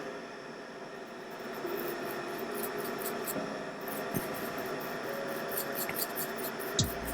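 Soft squeaks and light, quick scratching ticks of a Nintendo Switch Lite motherboard being cleaned of burnt-on flux, over a steady bench hum. A couple of low knocks near the end.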